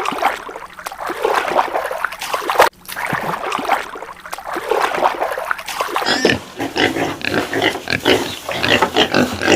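A jumble of short, overlapping animal calls, with a brief break about three seconds in.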